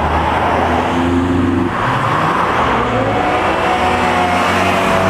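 Car engines running loud, one revving up with its pitch rising about two and a half seconds in and then holding high.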